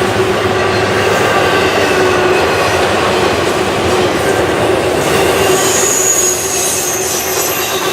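Freight train cars rolling past, steel wheels running on the rails in a steady loud rumble, with a high wheel squeal rising over it about five and a half seconds in.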